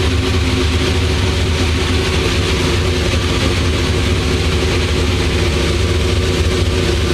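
Engine of a modified VAZ (Lada) sedan running loudly at a steady speed on a chassis dynamometer. A deep, even exhaust note that neither rises nor falls.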